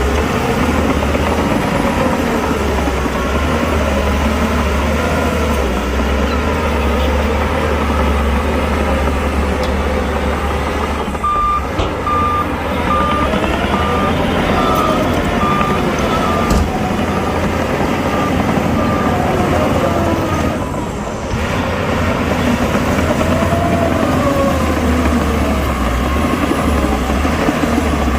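Heavy diesel construction machinery running under load, its engine note rising and falling. A reversing alarm beeps steadily for several seconds around the middle.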